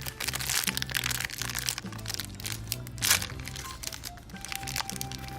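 Plastic blind bag crinkling and crackling as it is handled and torn open, in a run of short rustles with a louder crackle about three seconds in. Background music with steady low notes plays under it.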